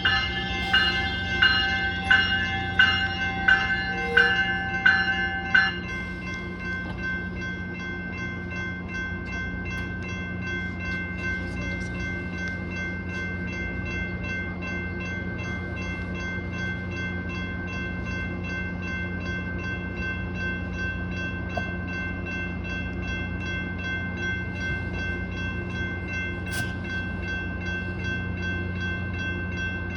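Metrolink diesel train running with a steady low engine hum and a steady high whine. Its bell rings in even strokes, a little more than one a second, and stops about six seconds in.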